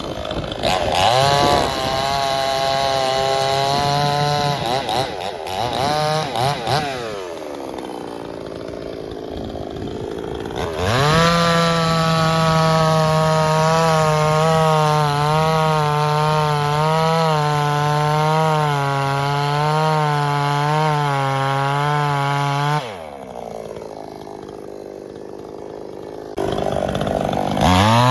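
Two-stroke gas chainsaw revved in a few short bursts, dropping back to a lower speed, then held at full throttle for about twelve seconds with its pitch wavering as it cuts through a log. About two-thirds of the way through it drops off to a lower, quieter speed, then revs up again near the end.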